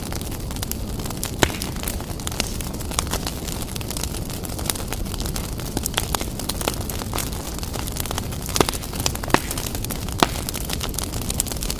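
Wood fire burning briskly in a fireplace: a steady low rumble of flames with constant crackling and a few sharper, louder pops, one about a second and a half in and three more toward the end.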